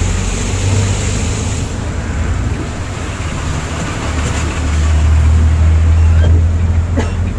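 Volvo B8R bus's diesel engine rumbling low under a steady hiss of road and rain noise, heard from inside the cabin. The rumble grows louder about four seconds in.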